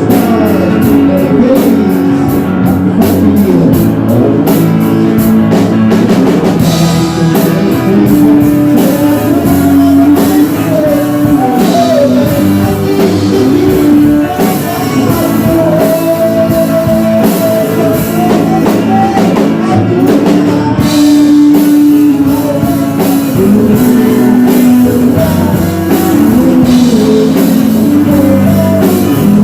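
Live band playing rock music with guitar, drum kit and a singing voice.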